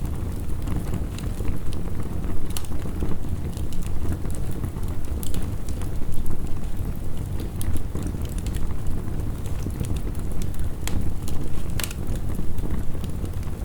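Steady heavy rain with a wood fire crackling over it: a dense low wash, with sharp pops and snaps that come at irregular times.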